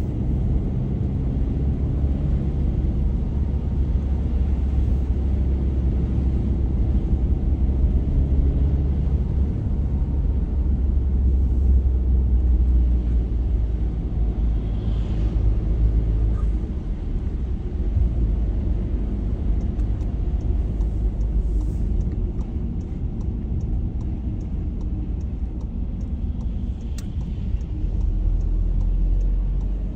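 A car driving on a snowy road: a steady low rumble of engine and tyre noise.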